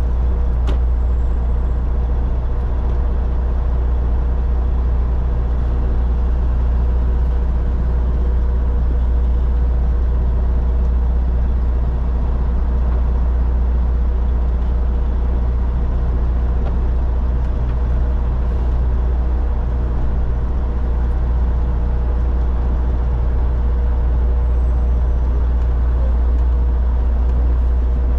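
Road-train prime mover driving at a steady speed: its diesel engine and road noise make a constant low drone with a steady hum.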